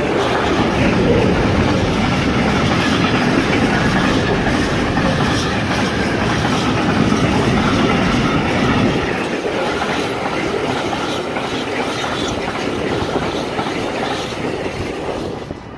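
Container freight train's wagons rolling past on the rails, a steady loud rumble with rapid clicking of the wheels. The low rumble drops about nine seconds in as the last wagons pass, and the noise fades away toward the end.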